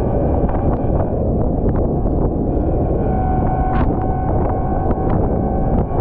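Volvo L110 wheel loader running steadily while plowing snow, its engine drone mixed with heavy wind noise on the microphone and scattered sharp ticks.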